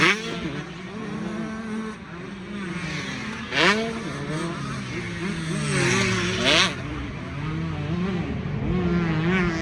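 Several motocross race engines running at once, their pitches rising and falling as riders throttle and shift around the track. There are brief louder bursts at the start, about a third of the way in and again past halfway.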